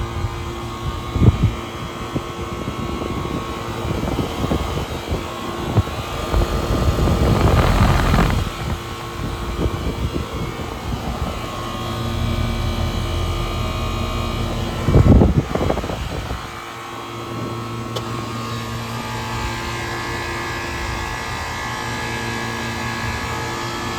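Outdoor central air conditioner condensing unit running, its compressor humming steadily under the whir of the condenser fan. A louder rushing swell builds up around eight seconds in and a short burst comes about fifteen seconds in.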